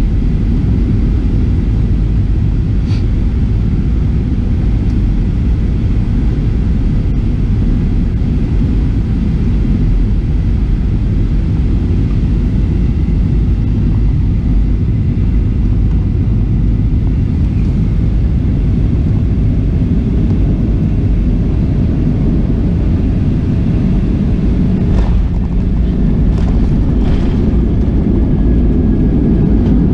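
Steady low rumble inside the cabin of a Boeing 737-700 airliner: its CFM56 jet engines and the airflow past the fuselage, with a few faint clicks.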